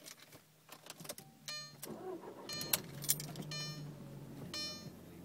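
Audi TT 225 quattro's 1.8-litre turbocharged four being started cold: it cranks and catches about two seconds in, then runs at a fast, high cold idle of about 1500 rpm, which the owner finds too high and can't explain. A dashboard warning chime repeats about once a second alongside.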